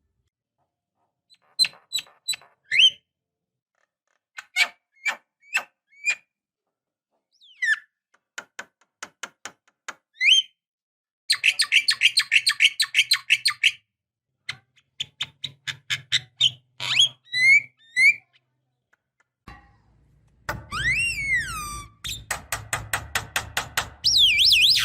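Javan myna (jalak kebo) singing: a varied string of sharp clicks and short whistles, a fast rattling chatter about eleven seconds in, and a long swooping whistle near the end followed by more rapid chatter.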